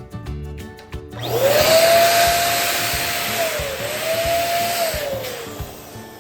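Electric balloon pump blowing air into a balloon for about four and a half seconds: a loud rush of air with a whine that rises as the motor starts, holds steady, and falls away as it stops. Background music plays before it starts.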